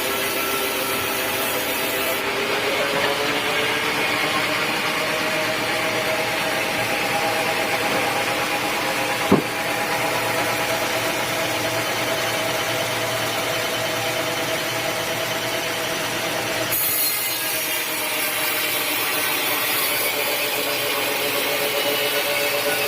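Power saw cutting teak wood, its blade's hum holding steady pitches that shift slowly up and down as the cut loads it. A single sharp knock about nine seconds in.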